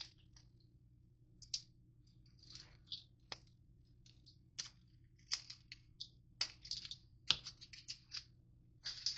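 Crunchy granola bars being crushed in a bowl: irregular crackling crunches and scrapes, with a couple of sharper knocks about three seconds and about seven seconds in.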